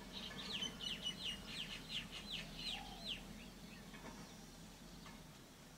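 A bird calling a quick run of about ten sharp notes, each sliding downward, about three a second, stopping about three seconds in. A faint steady low hum lies beneath.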